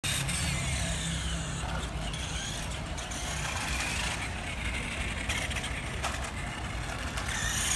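Electric motor and gears of a Nikko 1:5 scale radio-controlled Ducati toy motorcycle whining, the pitch gliding up and down as it speeds up and slows, over a low rumble.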